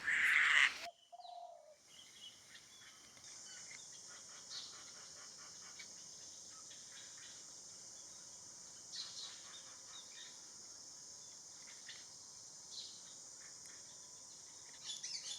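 Eurasian hoopoe's harsh, raspy defensive call, the loudest sound, cutting off abruptly about a second in. A single short low hooting note follows, then faint scattered chirps of small birds over a steady high hiss.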